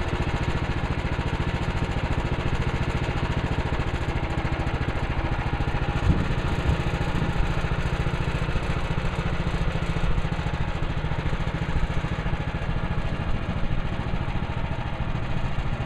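Woodland Mills HM130MAX portable sawmill's small gasoline engine running steadily, with a couple of brief knocks about six seconds in.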